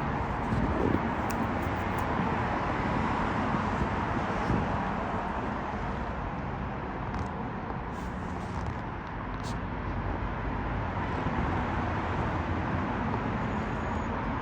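Steady outdoor background rumble, like distant traffic, with a few faint clicks.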